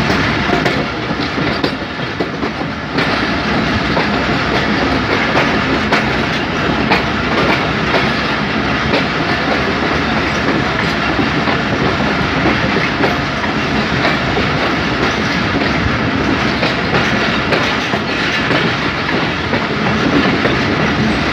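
Passenger train running along the track, heard from an open coach doorway: a steady rumble and rush of noise with the wheels clicking over rail joints now and then. The rush gets louder about three seconds in.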